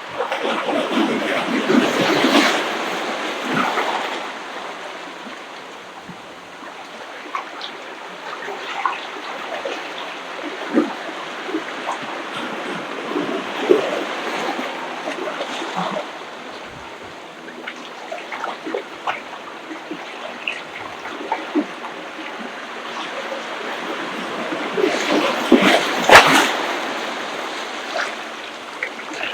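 Ocean waves breaking and washing up the beach, with a louder surge right at the start and another near the end, and many small splashes in between.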